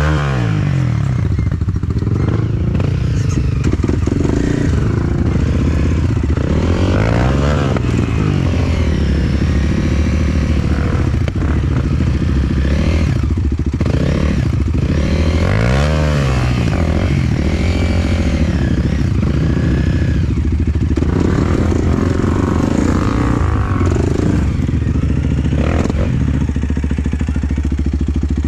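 Enduro motorcycle engine running as the bike is ridden, its revs rising and falling again and again, with the biggest rises about seven and sixteen seconds in.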